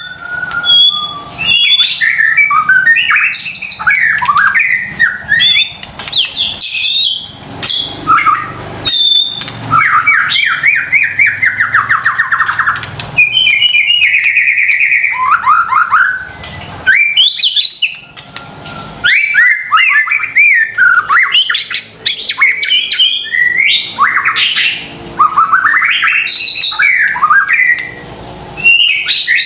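White-rumped shama (murai batu) in full, nonstop song: quick varied phrases of rising and falling whistles, fast trills and harsh clicking notes.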